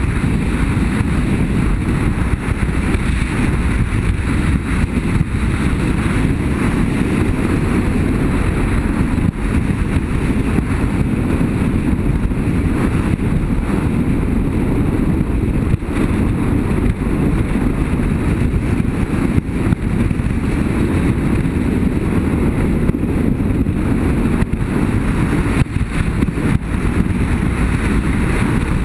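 BMW F800GS motorcycle under way at road speed: a steady rush of engine, tyres and wind buffeting the microphone.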